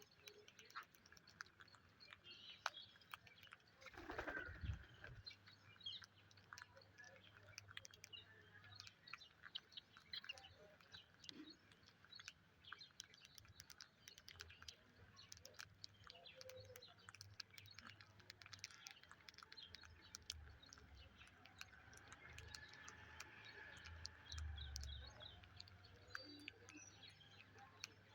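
Faint, quiet chirps from pet parakeets, with many small scattered clicks throughout.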